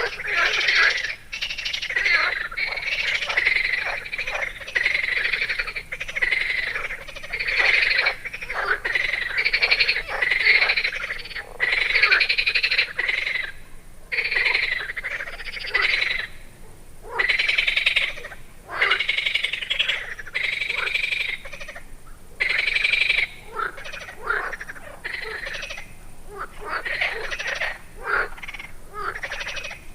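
A chorus of frogs croaking by a lake, many calls overlapping in bouts of a second or two with short lulls between.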